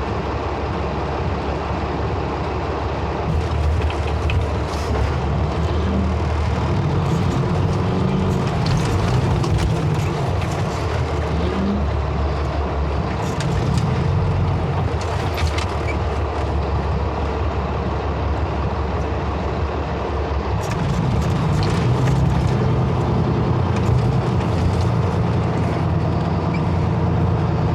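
Heavy diesel truck engine running under load, its revs rising and falling in long stretches, as the stuck semi is pulled out of the ice with a tow rope.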